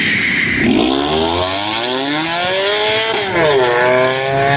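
A car engine accelerating hard. The pitch climbs for about two seconds, drops sharply about three seconds in as it shifts up a gear, then climbs again.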